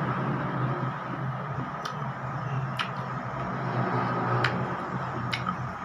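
Eating noises: about four short, sharp mouth clicks and smacks while eating rujak, over a steady low background hum.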